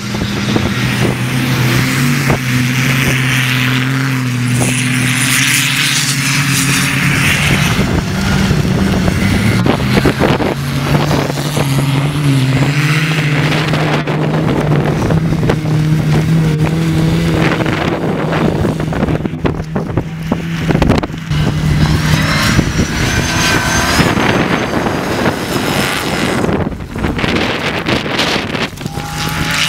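Off-road racing 4x4s running on beach sand, their engine notes holding a steady pitch for seconds at a time, under heavy wind buffeting on the microphone.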